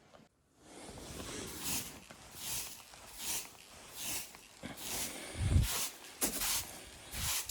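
Footsteps crunching in deep snow at a steady walking pace, about one step every 0.8 seconds, with heavier thudding steps near the end.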